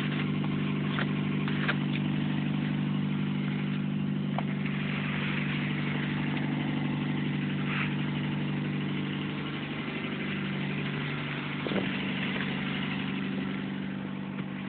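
Car engine idling steadily, with a few short sharp clicks or scrapes over it.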